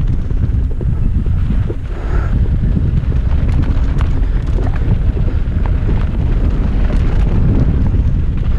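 Wind buffeting the camera microphone on a fast mountain bike descent, a heavy low rumble, with scattered clicks and rattles from the bike over rough trail.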